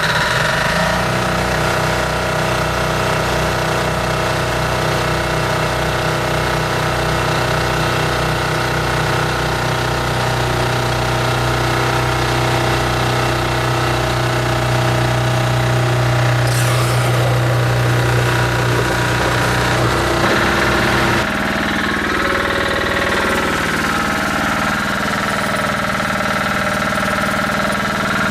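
Yanmar diesel sub-engine of a water sprinkler truck, running steadily with a fast, even thumping while it drives the spraying pump during an operation check. About two-thirds of the way through, the engine note changes and drops slightly.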